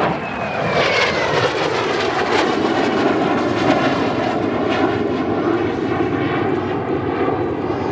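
Kawasaki T-4 jet trainers flying past, their twin turbofan engines making a loud, steady roar, with a whine that falls in pitch in the first second or so as an aircraft passes.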